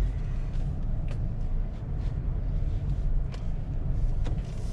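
Cabin sound of a 2020 Subaru Forester with its naturally aspirated boxer engine running: a steady low rumble, with a few faint clicks.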